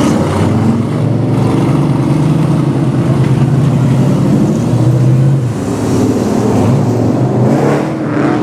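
Street stock race car engines running at fairly steady revs, their pitch wavering up and down near the end.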